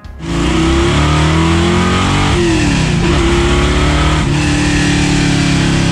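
Modified 1964 Chevrolet Chevy II Nova's 430-horsepower V8 pulling hard under acceleration, heard from inside the cabin. It comes in loud and sudden, and its pitch breaks and drops at gear changes about two seconds in and again about four seconds in.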